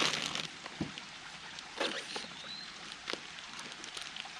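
A few scattered knocks and clicks from handling equipment, over a steady hiss.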